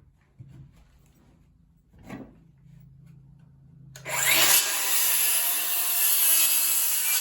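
DeWalt 20V Flexvolt cordless circular saw (DCS573) running on a 4 Ah battery, cutting through wood. A knock comes about two seconds in. About four seconds in the loud cut begins, a dense cutting noise with a steady high whine that lasts about three seconds.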